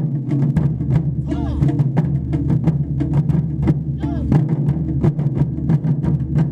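Ensemble of Japanese taiko drums played in a fast, dense rhythm, deep booming strokes under quick sharp hits, with a brief shout from the players now and then.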